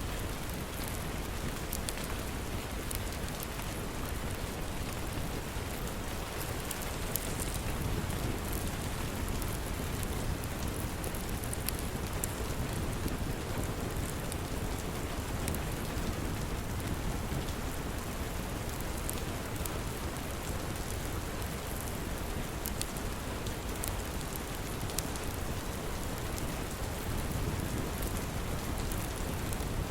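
Steady rain falling without a break, with scattered small crackles and pops from a wood fire in a fireplace.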